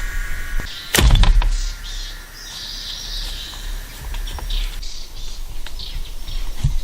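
Birds chirping in forest ambience, with a loud sharp knock or thump about a second in.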